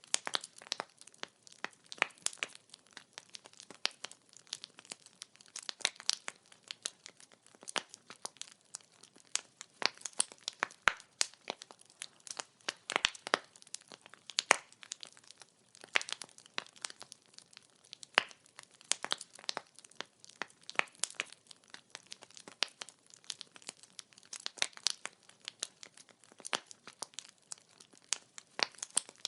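Burning firewood crackling and popping in a steady, irregular stream of sharp snaps, several a second, over a faint hiss of flame.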